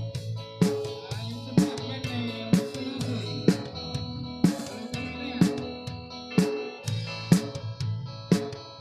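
Instrumental break in a Filipino dance song: guitar over bass and a drum kit, with a strong drum hit about once a second.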